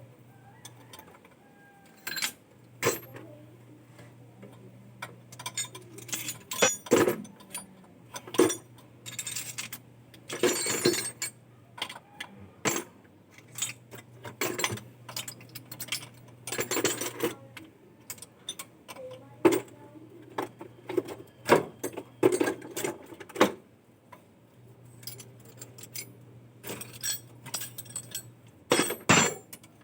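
Irregular clinks and knocks of metal objects being handled, some with a brief ring, over a faint low hum that starts and stops several times.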